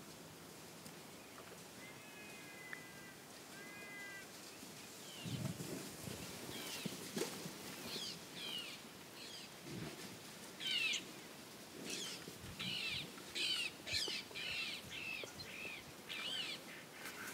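Birds calling: two short held, whistled calls, then from about six seconds in a busy run of short, sharp, repeated chirps.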